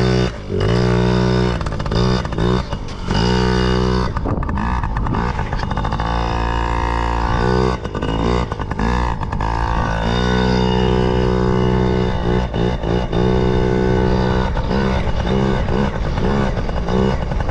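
Yamaha PW50 mini dirt bike's small two-stroke single running under throttle, its pitch holding, dipping and picking up again many times as it is ridden.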